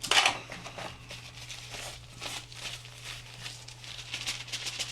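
Packaging rustling and crinkling as items are lifted out of a camera box, a louder crackle at the start and then a run of small irregular crinkles, over a low steady hum.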